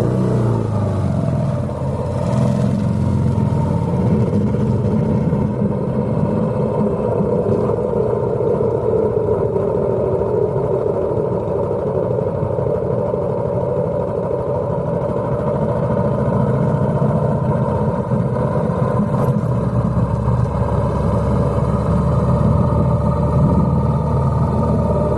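Vintage motorcycle engine running, its pitch dipping and then climbing again in the first couple of seconds before it settles into a steady drone.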